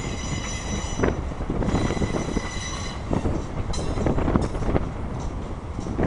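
Freight train cars rolling past, with rumble and sharp clacks as wheels cross rail joints, and wheels squealing high-pitched three times, each for about half a second to a second.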